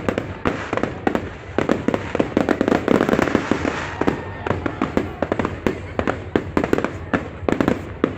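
Fireworks display in full barrage: a rapid, unbroken string of overlapping bangs and crackles, densest about three seconds in.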